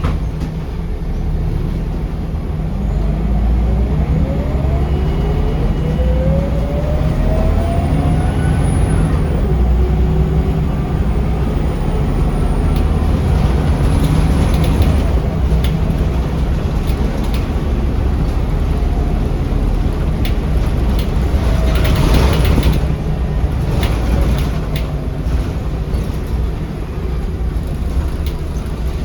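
Scania L94UB city bus heard from on board: the rear-mounted nine-litre diesel engine and driveline give a steady low rumble under way, with several rising whines in the first third as it gathers speed. About three quarters of the way through there is a brief burst of hiss, like air being released.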